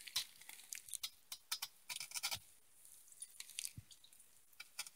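Faint, scattered clicks and scratches of small objects being handled, a dozen or so short ticks spread unevenly over the five seconds.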